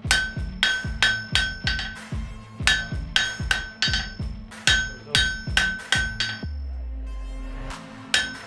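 Blacksmith's hammer striking hot iron on an anvil in a steady rhythm, about two to three blows a second, each blow ringing. The hammering pauses for a moment near the end and then starts again.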